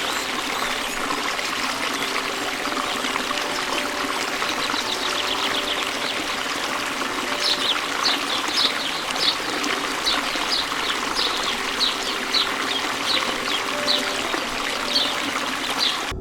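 Running water trickling and splashing steadily. From about halfway in, short high chirps repeat a little under twice a second over it.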